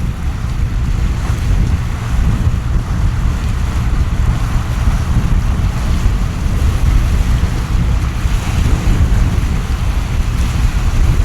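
Storm wind buffeting the microphone with a heavy, ragged low rumble, over the steady hiss of a torrential downpour.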